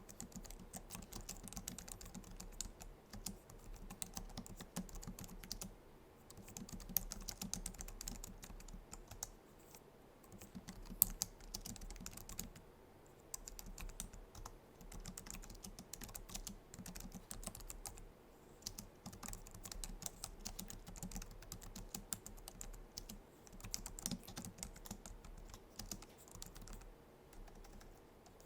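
Typing on a Logitech MX Keys keyboard with low-profile scissor-switch keys: continuous runs of fast key clicks, broken by short pauses every few seconds.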